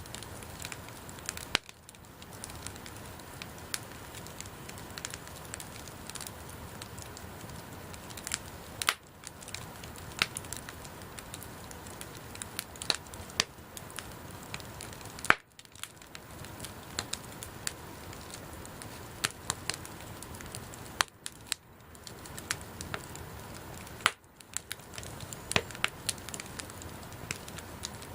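Wood bonfire burning: a steady hiss with frequent, irregular sharp crackles and pops from the burning wood, and a few brief dips in level.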